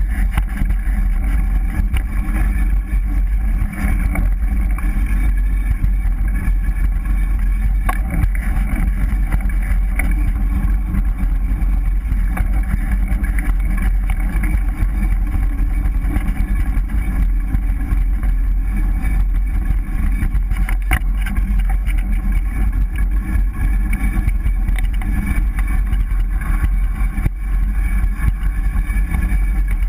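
GT Avalanche 3.0 mountain bike being ridden: a loud, steady rumble and rattle of the ride with a few sharp knocks, and a faint steady rub from the disc brake rotor catching on its pads.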